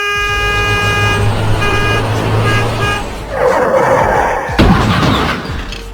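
Truck horn sounding one long blast, then three short honks over a low engine rumble, followed by a loud noisy rush and a sharp impact about four and a half seconds in, as of the truck hitting something.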